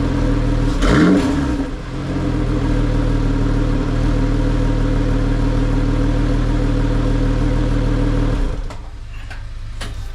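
Lotus Exige 380 Cup's supercharged V6 blipped once, revving up and falling back, then idling steadily through its repaired muffler; the engine sound drops away near the end.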